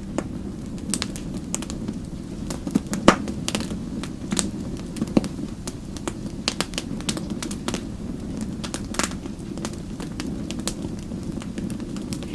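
Wood fire crackling: a steady low rumble of burning with irregular sharp pops and snaps, one louder pop about three seconds in.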